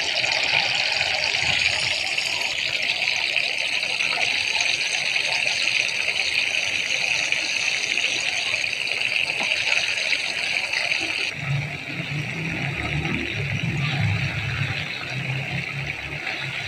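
Chicken shashlik skewers sizzling steadily in hot oil on a flat tawa over a low flame. About two-thirds of the way through the sizzle drops abruptly and a low hum comes in beneath it.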